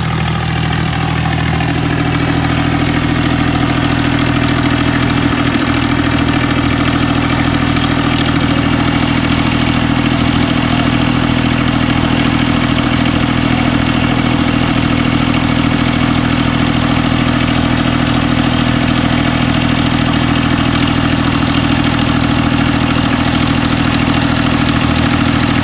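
Tractor's diesel engine running steadily; its note changes about two seconds in, then holds steady.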